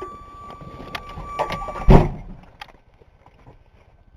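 Pickup truck door slammed shut about two seconds in, after some small handling clicks and a steady high-pitched tone.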